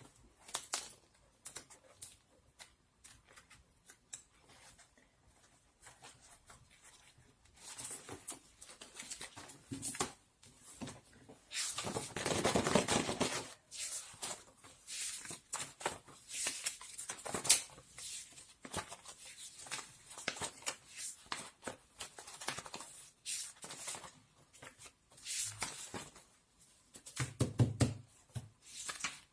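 Close-up handling noises: irregular rustling, taps and small clicks, with a longer rustle about twelve seconds in and a dull thump near the end.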